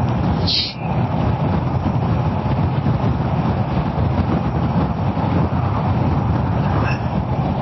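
Kawasaki ER-6f's parallel-twin engine running steadily while the bike is ridden along the road, mixed with a dense, even rush of wind and road noise.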